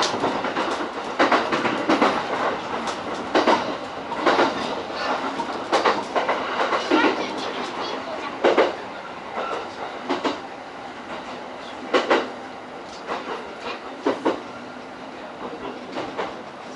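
E231-series electric train's wheels clacking over rail joints, heard from inside the leading car over a steady running noise. The clacks come further apart and the running noise drops after about 8 seconds as the train slows for a station stop.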